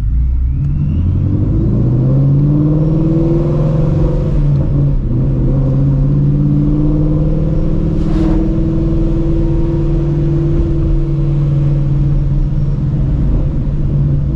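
Supercharged Ford Mustang Shelby GT350's 5.2-litre flat-plane-crank V8 pulling away, its note rising, dipping at a gear change about four seconds in, then rising again and settling into a steady cruise. A brief sharp sound just after eight seconds.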